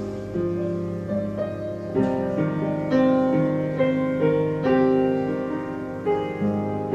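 Slow instrumental piano music, with sustained notes and chords changing every half second to a second.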